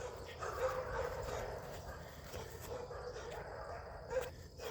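A dog whining faintly: a thin, wavering note that comes and goes.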